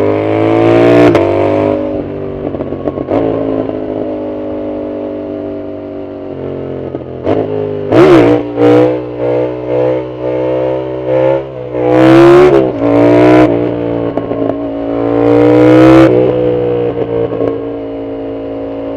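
Yamaha MT-07's 689 cc CP2 parallel-twin engine, through a loud full exhaust, pulling hard with the revs rising and dropping between gears. A run of short, sharp throttle blips from about seven to fourteen seconds in is followed by another long pull. The sound cuts off abruptly at the very end.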